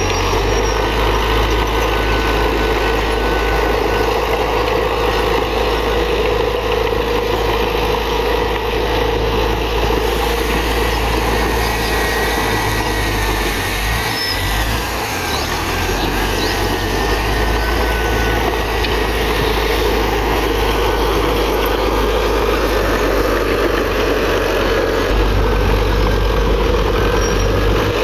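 Diesel engine of a Komatsu D31PX bulldozer running steadily while the machine works, dipping briefly about halfway through.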